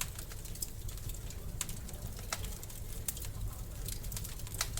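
Wood fire crackling in a fireplace: irregular sharp pops and snaps, a few of them louder, over a steady low rumble of the flames.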